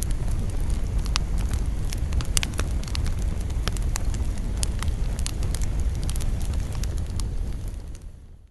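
Wood campfire burning, with frequent sharp crackles and pops over a low steady rumble; the sound fades out near the end.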